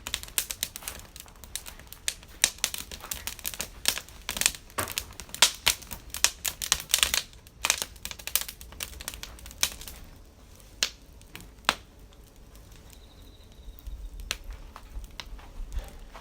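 Wood campfire crackling with a rapid, irregular run of snaps and pops that thins to a few sharp pops about two-thirds of the way through.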